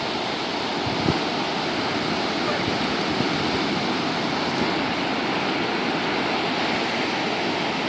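Ocean surf washing onto the beach, a steady rushing hiss.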